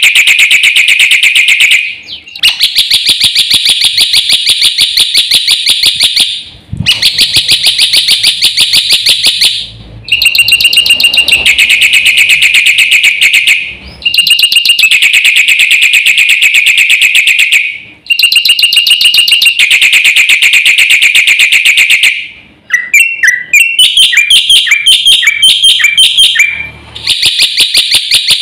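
Black-winged starling (jalak putih) singing loudly in long bouts of very rapid, harsh repeated notes, each bout lasting several seconds with brief pauses between. Near the end a run of shorter, varied chirps breaks in before the rapid notes resume.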